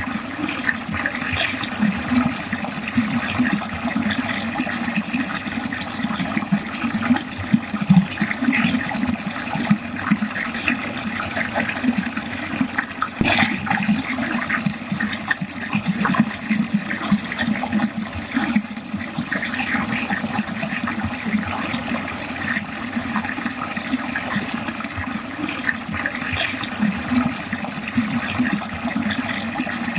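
Water running steadily into a drain, splashing and gurgling continuously, with a brief sharper splash about 13 seconds in.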